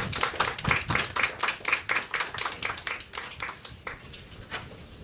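A small crowd clapping, dense at first and thinning to scattered claps toward the end.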